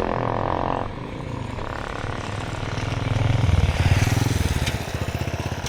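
A motorcycle engine running close by with a fast low pulse, growing louder about halfway through and fading near the end as it passes. A steady tone sounds in the first second and cuts off suddenly.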